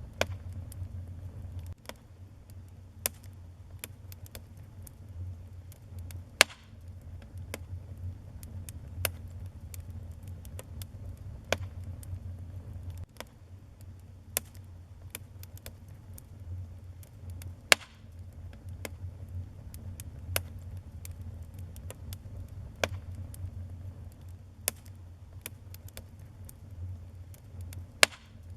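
Wood fire burning in a fireplace: a steady low rumble of flames with irregular sharp crackles and pops. Three louder pops fall about a third of the way in, near the middle and near the end.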